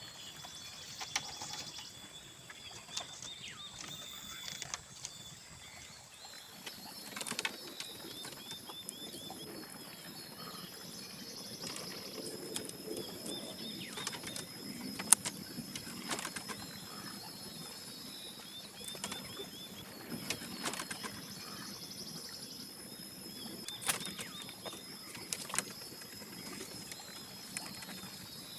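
Forest ambience: a steady high-pitched drone with repeated short bird chirps, broken by scattered sharp knocks, the loudest about halfway through.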